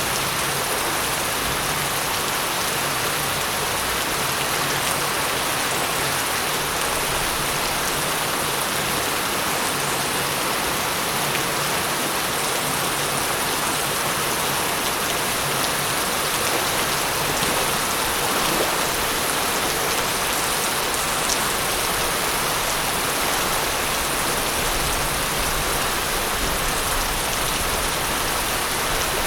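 Steady heavy rain falling and pattering on surfaces, an even dense hiss with occasional drop ticks.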